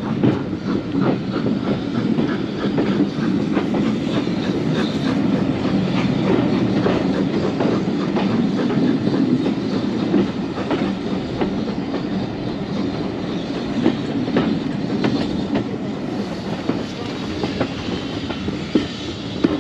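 Heritage railway carriage in motion: a steady rumble of wheels on track, with irregular clicks and knocks as the wheels pass over rail joints.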